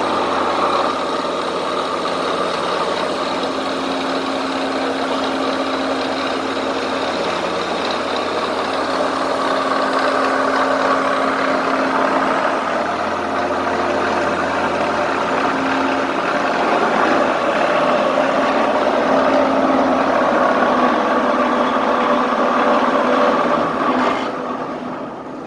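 A motor vehicle's engine running steadily with a continuous hum, fading out near the end.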